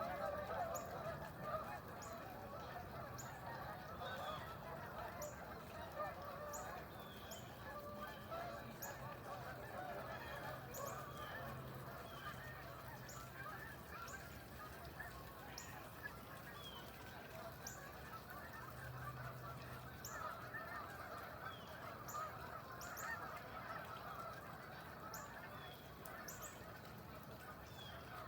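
A flock of birds calling together in a continuous, dense clamour, with short high chirps repeating every second or so over a low steady hum.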